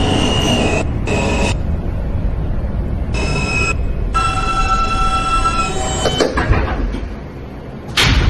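New York subway train noise inside a J-line car: a steady low rumble with high, steady whining tones that come and go, and the noise dropping just before the end.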